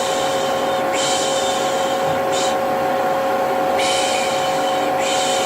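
Vacuum cleaner running with a steady motor whine, overlaid by repeated baby-soothing 'shh' shushing. The shushes come about every second or so, each lasting about a second, one of them cut short.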